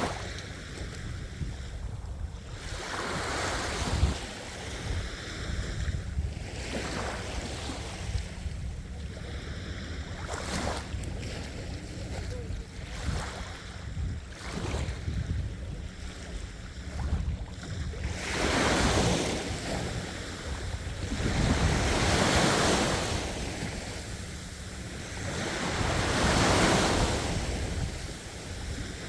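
Ocean waves breaking and washing on the shore in steady succession, each surge swelling and fading over a few seconds; the largest come in the second half. A steady low rumble of wind on the microphone lies underneath.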